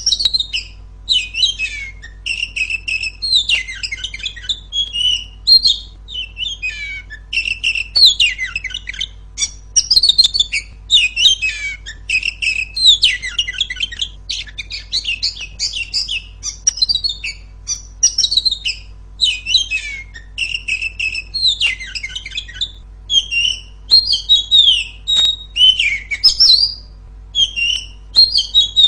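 Female oriental magpie-robin (kacer) singing loudly: a near-continuous run of quick, varied whistles, chirps and trills broken only by short pauses.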